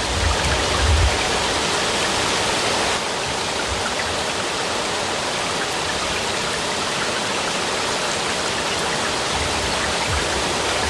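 Steady, heavy rainfall making an even hiss, with a low rumble that dies away about a second in.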